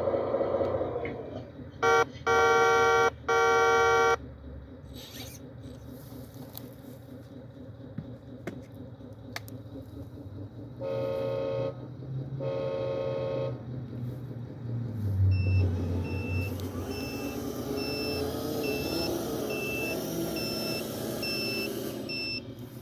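Heavy earthmoving machinery's diesel engine running, with three horn blasts about two seconds in (one short, two long) and two more about halfway through. The engine then revs, and a backup alarm beeps at an even pace until near the end.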